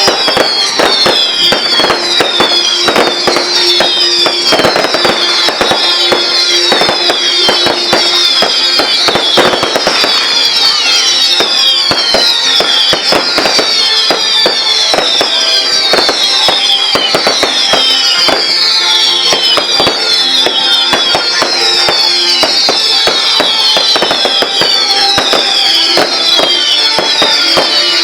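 Fireworks going off without pause: dense crackling bangs and many short falling whistles, with music playing underneath.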